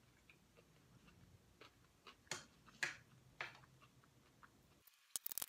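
Quiet chewing of a mouthful of hummus pasta, with soft wet mouth clicks, a few of them louder about two to three and a half seconds in, and a quick run of sharper clicks near the end.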